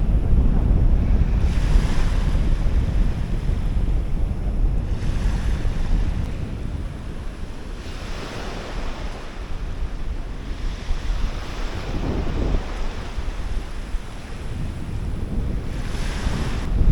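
Wind buffeting the microphone with a heavy low rumble, over waves washing in as a broad rush that swells every few seconds.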